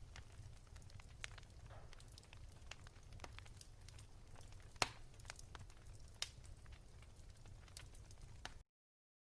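Wood fire in a fireplace crackling softly: scattered pops and snaps over a low steady rumble, one pop about halfway much louder than the rest. The sound cuts off abruptly near the end.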